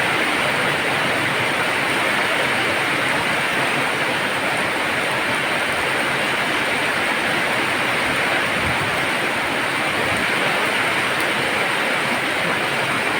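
Heavy rain falling: a dense, steady hiss with no let-up.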